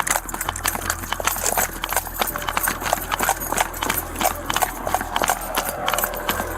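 Rapid, irregular footfalls and clattering knocks, like a person running on pavement with gear jostling, over a steady low hum.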